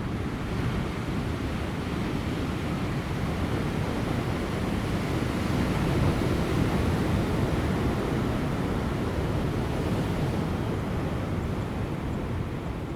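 Ocean surf breaking on rocks, a continuous heavy wash that swells to its loudest about halfway through and eases off near the end, with light wind.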